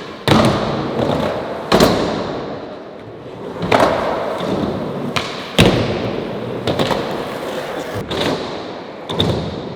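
Skateboard repeatedly smacking down on pavement: sharp board impacts about every one to two seconds, with the rolling rumble of the wheels fading after each one, as kickflip attempts are popped and landed or bailed.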